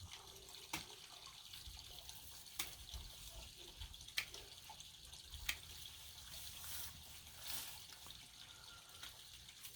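Faint steady trickle of water from a small waterfall running into a pond, with a few sharp clicks scattered through it.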